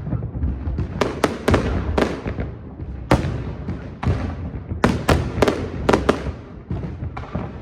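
New Year fireworks display going off: sharp aerial shell bangs at irregular intervals, each trailing off, over a continuous low rumble. There is a quick run of bangs about a second in, another about three seconds in, and a dense cluster around five to six seconds in.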